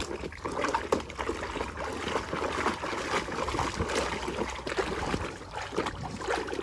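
Water sloshing and trickling as a muddy plastic toy truck is washed by hand, with small irregular splashes and light ticks.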